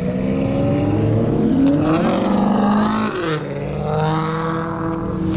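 Car engine revving and accelerating hard, its pitch climbing, dipping briefly about three seconds in, then climbing again.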